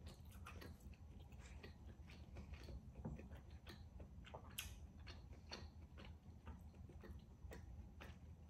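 A person chewing food with the mouth close to the microphone: faint, irregular wet clicks and smacks of the mouth.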